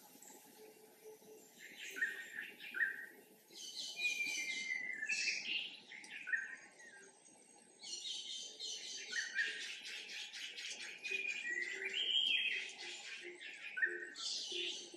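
Songbirds chirping and trilling in bouts, with a longer run of rapid trills from about eight seconds in and a few faint low calls underneath.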